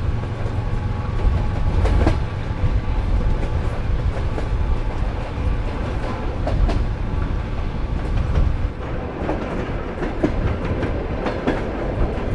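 Soviet-built sleeper train running on the rails: a steady low rumble with clicking wheel clatter over the rail joints, the clicks coming thicker in the last few seconds.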